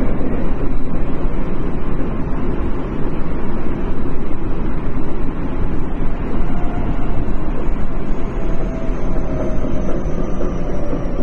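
Tokyo Metro 10000 series subway train running, a steady low rumble of wheels and running gear. From about halfway, a faint whine slowly falls in pitch.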